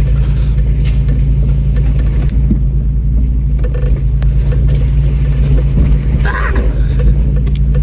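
Off-road rig's engine running at low speed while crawling a rutted trail, a steady low rumble heard from inside the cab.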